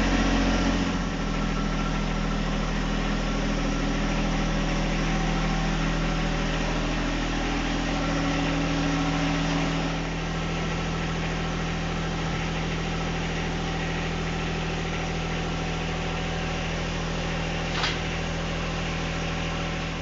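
The three-cylinder diesel engine of a John Deere 1025R compact tractor running steadily. Its sound eases a little about a second in and again about halfway through. A brief click comes near the end.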